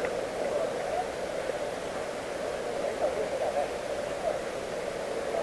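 Muffled, indistinct chatter of distant voices over steady background noise, with no clear words.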